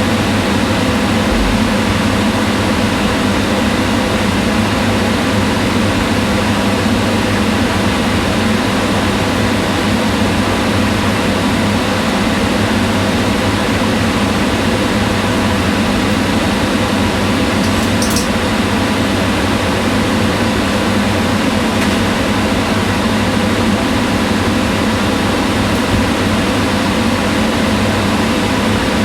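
Kitchen range hood fan running steadily: an even rushing whir with a low hum underneath. There is a faint brief tick about 18 seconds in.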